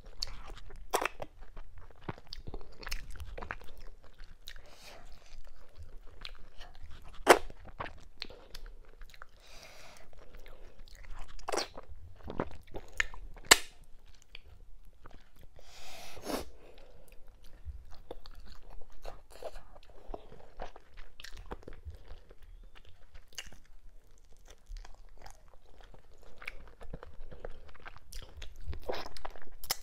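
Close-miked chewing and wet lip smacks of a person eating fufu, cow skin and mackerel in okra and ogbono soup with her hands, in irregular bites with small sharp clicks. Two much louder sharp clicks stand out, one about seven seconds in and one about thirteen and a half seconds in.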